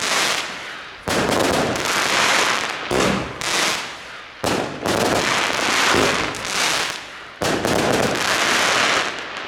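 Xplode Double Deck Red firework cakes firing, each shot bursting into a dense sea of crackling stars. New bursts come in every second or two, and the crackle thins out near the end.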